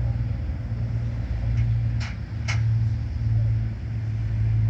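Engine running steadily with a low drone, with three brief sharp ticks in the middle.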